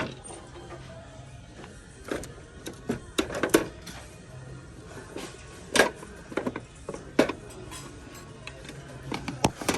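Knocks and clatter of hard objects being picked up and set down on shelves, over faint background music.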